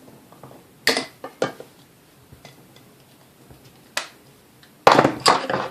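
Hand tools and small metal mixer parts clicking and clinking during disassembly: a few sharp clicks about a second in and again at four seconds, then a louder burst of clatter near the end.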